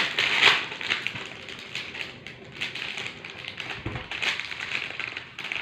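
Irregular clicks, taps and rustling of a plastic geometry compass box and its parts being handled, with one heavier knock a little before the end.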